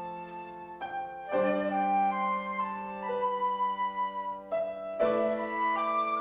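Slow instrumental church music: sustained flute-like melody notes over held keyboard chords, pausing briefly between phrases about a second in and again near the end.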